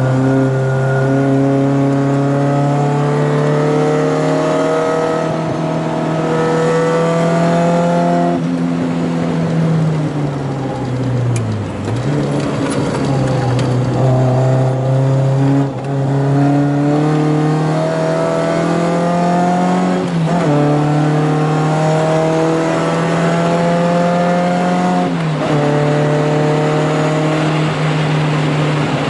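1980 VW Scirocco Mk1 GT's four-cylinder engine heard inside the cabin, pulling hard at track pace. Its pitch climbs slowly in each gear and drops at the gear changes, about 8, 16, 20 and 25 seconds in. It also dips lower and climbs again about 12 seconds in.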